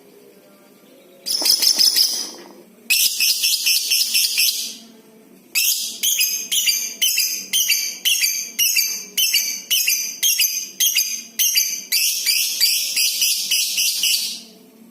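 Lovebird chattering in long, fast, high-pitched trills (the 'ngekek' call). There is a short run about a second in, a longer one about three seconds in, then a string of about ten quick separate bursts, and a final long run that stops near the end.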